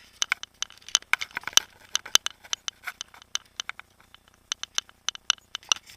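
A rapid, irregular run of sharp clicks and light rattles, several a second, over a faint background hiss.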